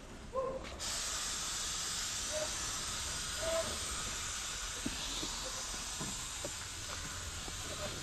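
A steady high-pressure spray hissing, switched on suddenly about a second in and held steady.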